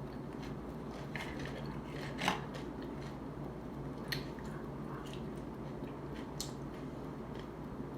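Close-miked chewing of a crunchy tostada topped with shrimp ceviche: scattered short crunches and mouth clicks, the loudest about two seconds in. A steady low hum runs underneath.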